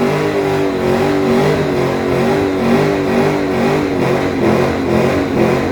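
Car engine held at high revs, its steady note pulsing rhythmically.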